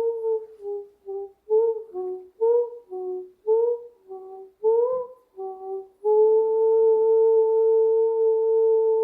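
A voice humming or toning in short, rising and falling notes, one or two a second. About six seconds in it settles into one long, steady held note.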